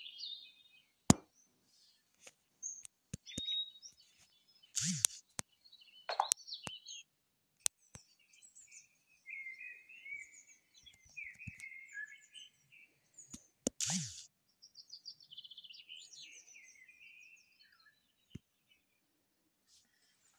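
Birds chirping and twittering, with scattered sharp clicks and two short, louder noisy bursts about five and fourteen seconds in.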